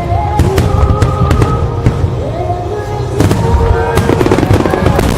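Aerial fireworks bursting in quick succession, many sharp bangs and crackles over a deep rumble, with music playing alongside.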